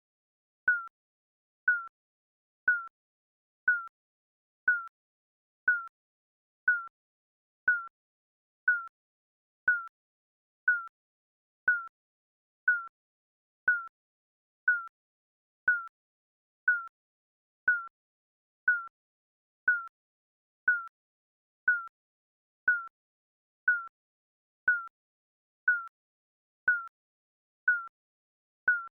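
Digital countdown timer beeping once a second: a short single-pitched beep each second with silence in between.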